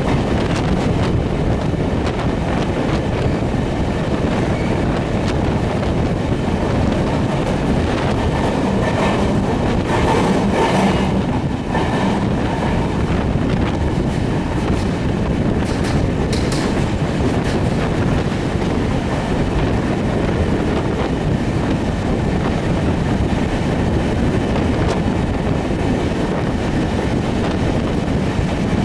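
Passenger train running slowly through a long railway tunnel, heard from on board: a steady, loud rumble of wheels on the rails, briefly a little louder about ten seconds in.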